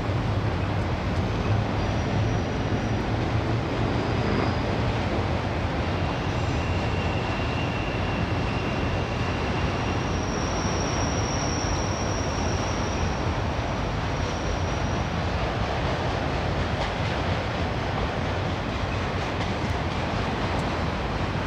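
A freight train of autorack cars rolling past, a steady rumble of wheels on rail. A thin high wheel squeal rises out of it about six seconds in, and a higher, louder one from about ten seconds in that lasts a few seconds.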